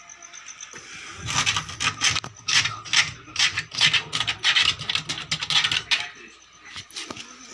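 Quick, irregular scraping strokes of something rubbed hard over a surface, like sanding or scrubbing by hand. They start about a second in and die down about six seconds in.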